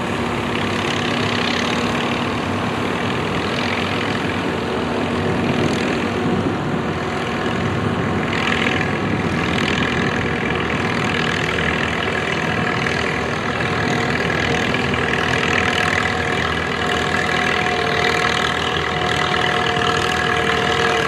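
Antique farm tractor engine running steadily, with a held engine note whose pitch shifts about a third of the way through.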